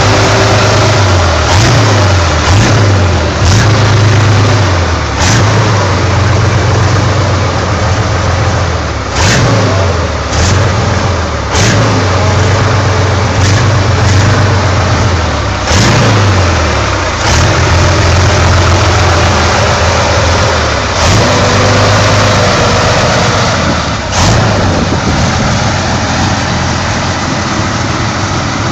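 Motorcycle engine revving up and down again and again, with a deep note and occasional brief sharp cracks.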